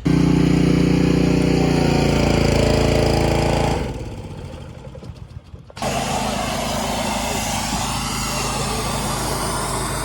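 A vehicle engine starts with a loud flare that settles down in pitch over a few seconds. Then comes a steady engine hum with road and wind noise, as heard while driving, which comes in suddenly about six seconds in.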